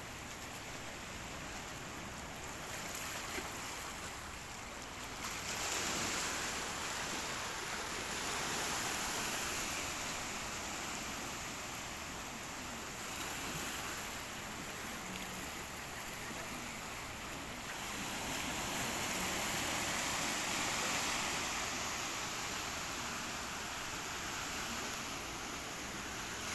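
Sea waves breaking and washing in, a steady rushing hiss that swells and fades every few seconds.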